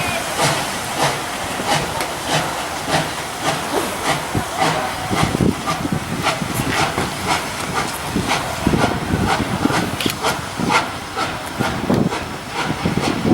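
PKP Ol49 steam locomotive working, its exhaust beating in a steady rhythm of about one and a half beats a second over a continuous hiss of steam.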